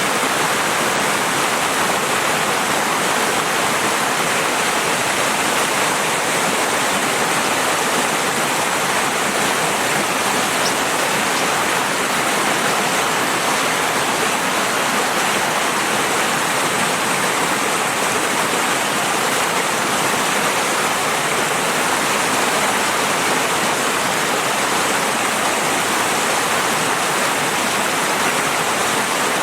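Steady rushing of flowing river water, an even, unbroken hiss without separate splashes or drops.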